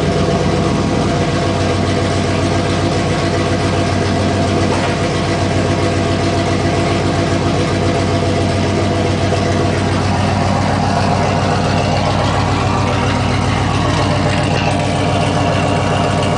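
Camaro Z28's LS1 V8 idling steadily through a full SLP Loudmouth exhaust.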